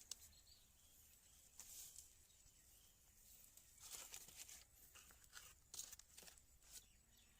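Near silence, with a few faint, brief rustling and clicking sounds scattered through it.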